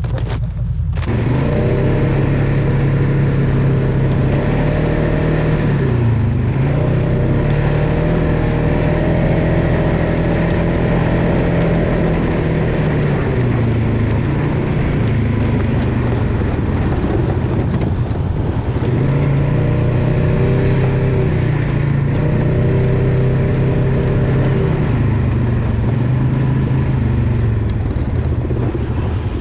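Off-road vehicle engine running hard and revving. Its pitch rises and falls several times: it starts about a second in, dips around six seconds, eases off in the middle and climbs again before settling lower near the end.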